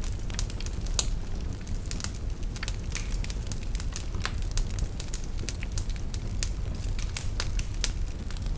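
Wood fire burning in a fireplace, with a steady low rumble of flames and irregular sharp crackles and pops from the burning logs.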